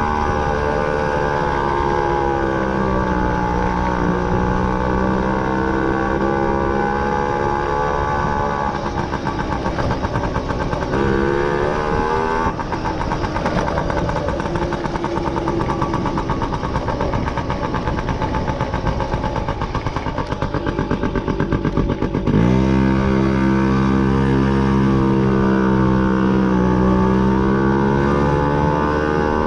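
Motorcycle engine running while the bike is ridden, its pitch falling and rising with changes of speed, and climbing sharply as it accelerates about three-quarters of the way through.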